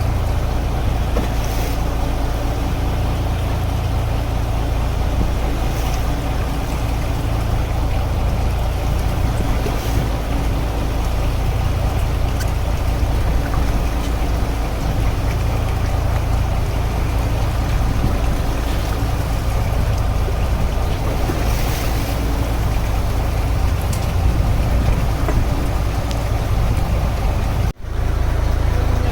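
A fishing boat's engine running steadily as a loud, constant low rumble, with a hiss of water and wind over it. The sound cuts out for an instant about a second before the end.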